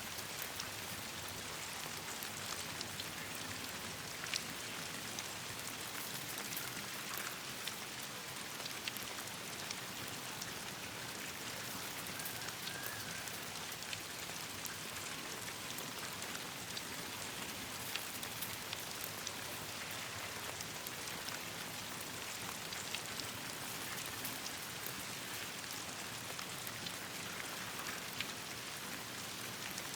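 Steady rain falling, an even hiss with many small sharp clicks scattered through it.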